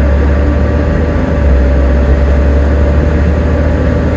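Volvo B7TL double-decker bus under way, its engine giving a heavy low rumble with a steady hoover-like whine held at one pitch.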